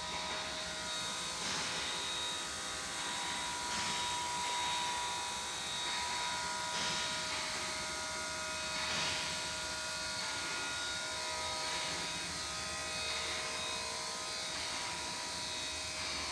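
2025 Mazda 3 engine idling steadily, with a steady whine and soft swells every two to three seconds.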